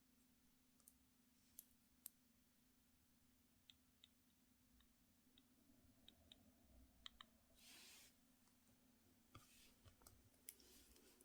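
Near silence with faint, scattered small clicks and taps from small objects being handled, and a brief rustle about eight seconds in, over a low steady hum.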